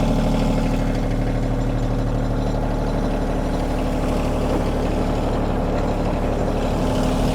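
Kioti compact tractor's diesel engine running steadily at an even speed.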